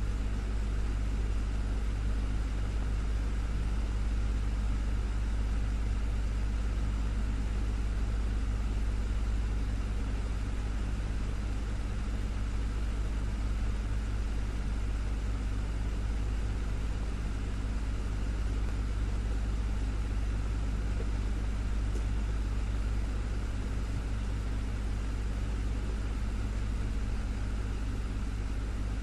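Desktop fan running steadily: a low motor hum with a few steady tones and an even rush of air.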